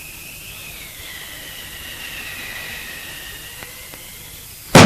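Faint, wavering high whistle over a soft hiss, an eerie cartoon sound effect for the strange night noise. A loud sudden sound breaks in near the end.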